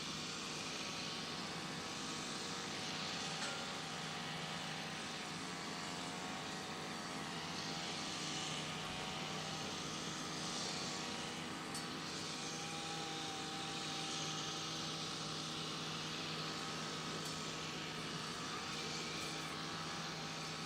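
Boeing 737-800 jet engines running steadily: an even rushing noise with a few faint, wavering whining tones.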